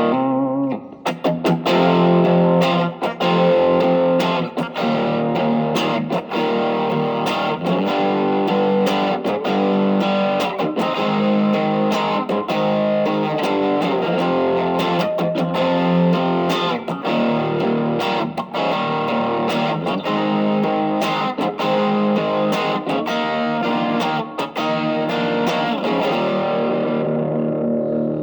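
Electric guitar played through an Ibanez TS808 Tube Screamer overdrive pedal set as a boost, giving a lightly driven tone; a continuous passage of picked notes and chords that rings out and fades near the end.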